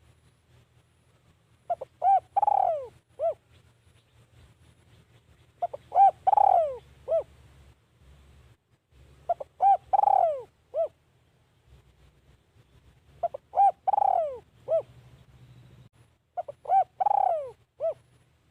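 Spotted dove cooing its repeated song phrase five times, about every four seconds: a few short coos ending in a longer coo that falls in pitch.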